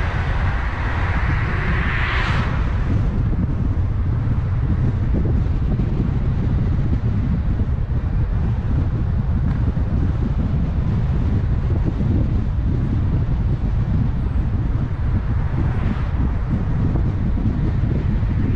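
Steady low rumble of a car driving on the road, with tyre and wind noise on the microphone. A brief louder hiss swells and fades about two seconds in.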